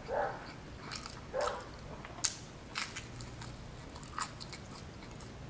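Close-up chewing of a mouthful of New York–style cheese pizza: wet mouth smacks and scattered crisp crunches of the crust, the sharpest a little over two seconds in.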